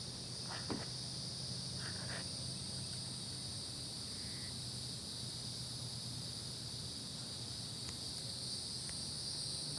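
Steady, high-pitched insect chorus, an unbroken trill at two pitches, over a faint low hum.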